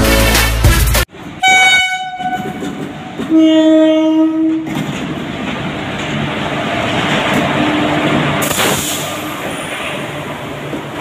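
Indian Railways WAP-4 electric locomotive sounding its horn twice, a short blast and then a longer one, then running past with its LHB coaches, a steady rumble of wheels on the rails. The last second of upbeat intro music is heard first, cut off sharply.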